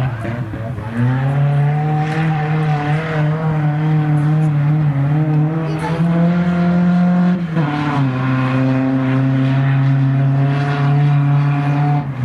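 Race car engine running at steady high revs, with its pitch dipping briefly about seven and a half seconds in as the throttle is lifted, then pulling back up.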